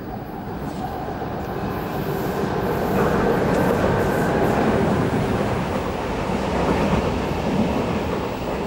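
Electric passenger train running past on the rails: the rumble of its wheels grows louder as it approaches, is loudest about three to five seconds in, and goes on as the carriages pass.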